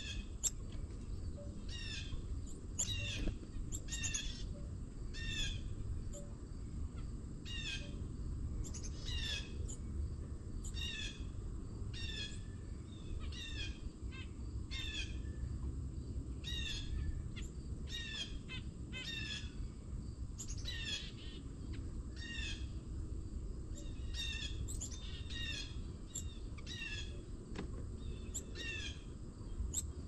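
A bird calling over and over: a short, steeply falling note, repeated about once or twice a second, over a low steady rumble of outdoor background noise.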